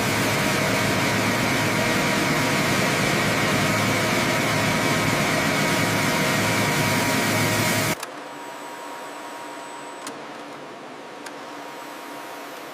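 Steady noise of woodworking factory machinery running, with a high whine over it. About eight seconds in it cuts abruptly to a quieter steady hum with a couple of faint ticks.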